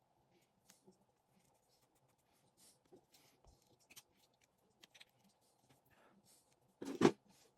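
Small parts of a fishing reel being handled during repair: faint scattered clicks and light scrapes, then a louder clack near the end.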